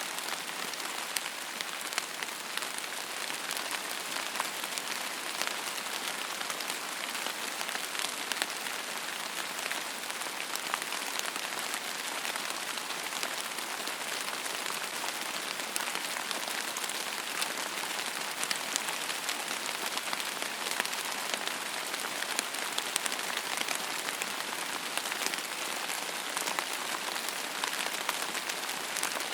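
Steady rain falling on a surface, an even hiss full of fine drop ticks, with no thunder.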